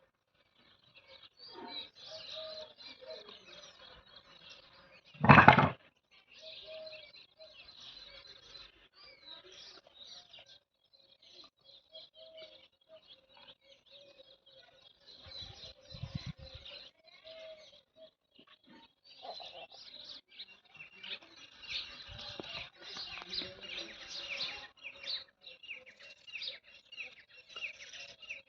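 Small birds chirping on and off throughout, with one loud sudden knock about five seconds in.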